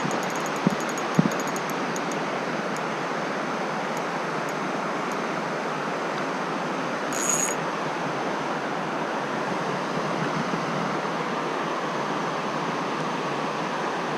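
Steady rushing of flowing stream water. Two short knocks come about a second in, and a brief high hiss comes midway.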